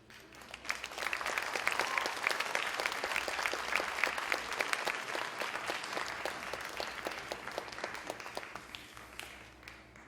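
Audience applauding: many hands clapping that swells up within the first second and dies away near the end.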